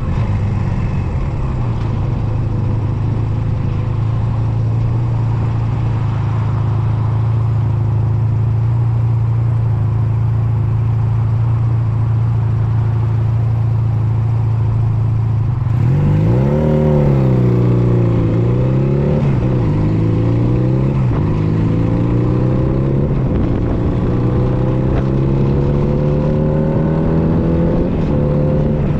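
Honda Nighthawk 250's air-cooled parallel-twin engine, heard while riding. It runs at steady revs, then about halfway through the revs climb and dip several times before a long, steady rise as the bike accelerates.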